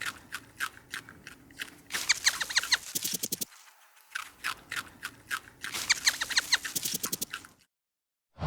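A small animal giving quick runs of short, high, slightly falling squeaks, several a second, in three bursts. The calls stop a little before the end.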